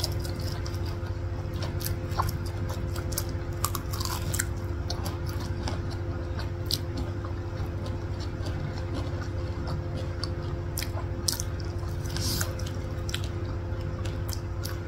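Two people chewing corn dogs close to the microphone: soft, wet mouth sounds and scattered small clicks and smacks, over a steady low hum.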